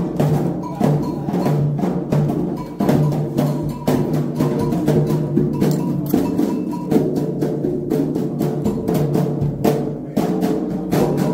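Candomblé ritual drumming: atabaque hand drums playing a fast, steady rhythm with a struck bell keeping time.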